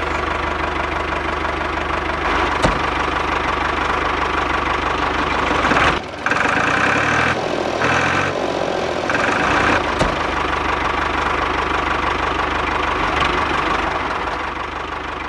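Small electric motor of a DIY toy tractor's mini drilling rig running steadily, dropping out briefly about six seconds in and then running on with a changed tone.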